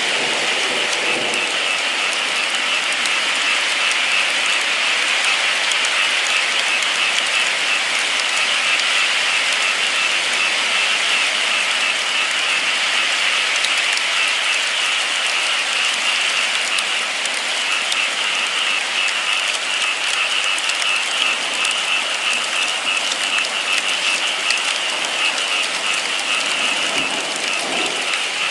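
Steady rain falling, an even, unbroken hiss of drops that neither builds nor fades.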